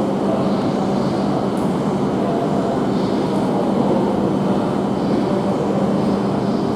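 Tohoku Shinkansen train standing at the platform after arriving, its onboard equipment and cooling fans giving a steady hum with a constant low drone.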